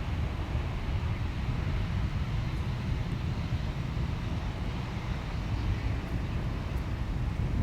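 Steady rumble of a jet airliner's engines, mixed with wind buffeting the microphone.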